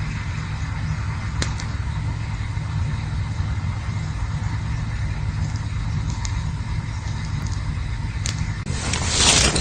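Campfire burning with a steady low rumble and soft hiss, a few sharp crackling pops, and a louder rushing hiss near the end.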